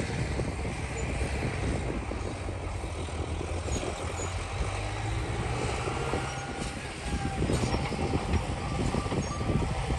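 Heavy diesel earthmoving machinery running steadily under load, with scattered metallic knocks and squeaks; the engine gets a little louder about seven seconds in.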